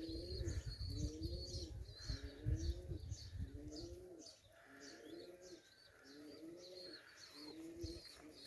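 Pigeons cooing, a low wavering coo repeated about every second, with a small bird chirping sharply and quickly over it. Low wind rumble on the microphone fades out about halfway through.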